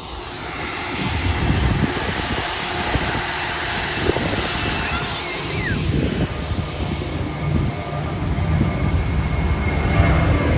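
Propeller airliner's engines, a steady drone that grows louder as the plane comes nearer.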